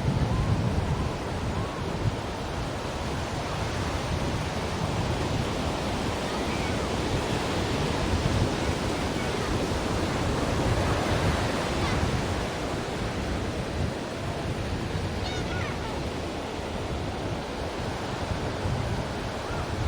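Ocean waves washing in as a steady surf, swelling and easing slowly over several seconds.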